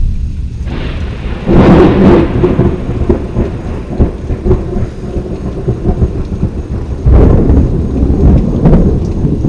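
Thunder rumbling over steady rain, with two loud rolls, one swelling about a second and a half in and another breaking suddenly about seven seconds in.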